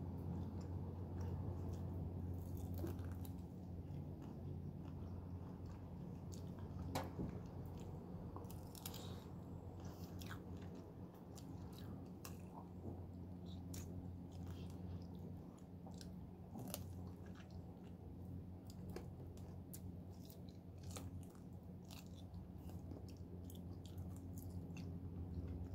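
A person biting into and chewing small round orange fruits close to the microphone: scattered wet clicks and crunches throughout. A steady low hum runs underneath.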